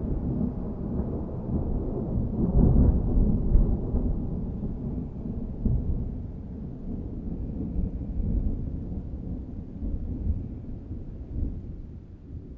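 Thunder rumbling low and rolling on, with a swell a couple of seconds in, then slowly fading away.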